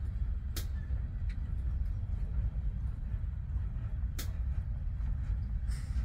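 A train passing: a steady low rumble with a few sharp, irregular clicks.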